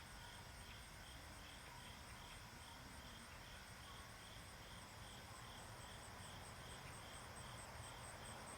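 Faint chirping of insects, with a steady pulsed chirp about three times a second over a continuous high-pitched trill.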